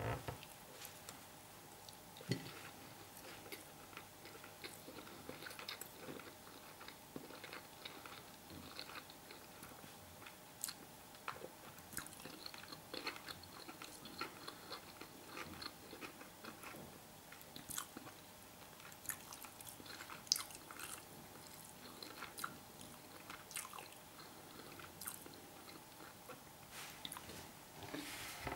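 A person chewing a mouthful of stuffed meatloaf and fries: many small, irregular mouth clicks, over a faint steady hum.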